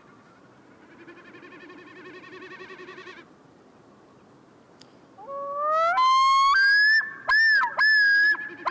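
Common snipe drumming faintly: a pulsed, bleating throb made by air through its outer tail feathers in display flight. From about five seconds in, great northern divers (common loons) give loud, echo-free calls that rise in stepped glides and then break into repeated looping notes.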